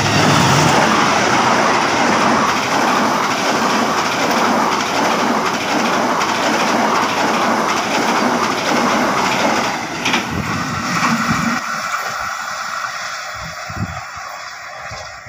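Passenger train hauled by a CC 206 diesel-electric locomotive passing close by: the loud rumble and rattle of the locomotive and coaches going past, fading as the train draws away in the last few seconds.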